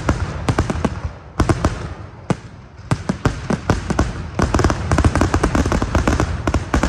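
Fireworks display: a rapid, dense volley of overlapping bangs and crackles, easing briefly about two seconds in before picking up again.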